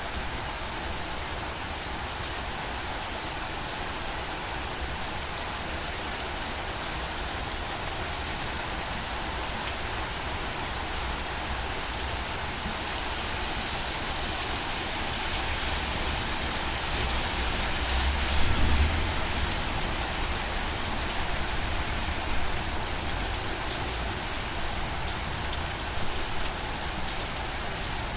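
Steady rain falling and pattering on surfaces, an even hiss of many drops. A low rumble swells briefly about two-thirds of the way through, with smaller low bumps later.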